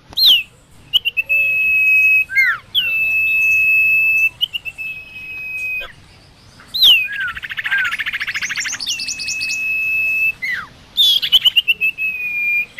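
A sirtu (sirpo) bird singing in full, excited song: several long, level whistled notes, each opening with a quick swooping note, broken about halfway through by a fast rattling chatter.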